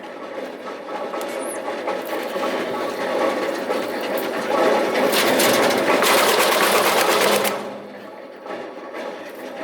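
Electric drum wood chipper (RPE 200, 22 kW) running, with a loud stretch of chipping from about halfway through as wood is fed in, dropping back to the steady hum of the machine running empty near the end.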